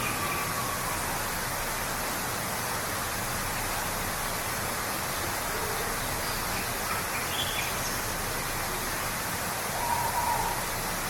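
Steady rush of a waterfall, with a few short, faint bird calls over it.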